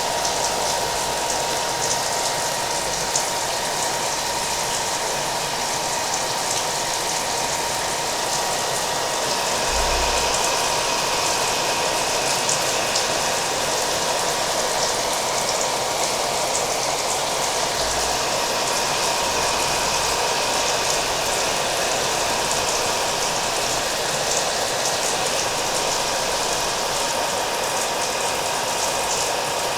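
A hair dryer running steadily, mixed with rain falling.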